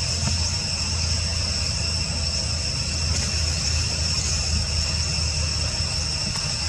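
Steady chorus of insects, crickets or cicadas, a continuous high-pitched buzz that holds at a few fixed pitches, over a steady low rumble.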